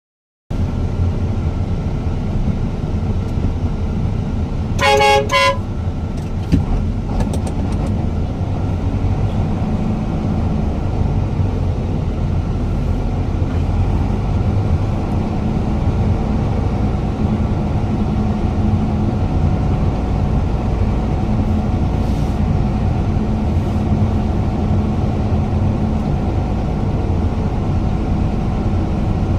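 Heavy truck engine running steadily with a deep rumble, and a horn giving two short toots about five seconds in.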